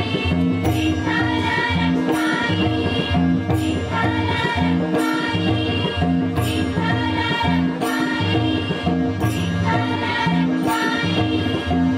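A group singing a Marathi devotional bhajan over sustained accompaniment, with a steady percussion beat.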